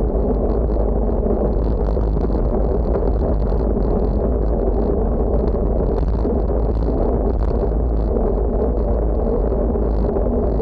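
Steady wind rush over the microphone of a camera moving at speed, with constant low tyre and road rumble.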